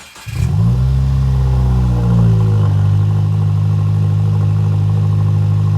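Subaru WRX turbocharged flat-four starting with its exhaust removed: a brief crank, then the engine catches, flares up in revs and settles about two seconds in into a loud, steady idle that sounds nasty.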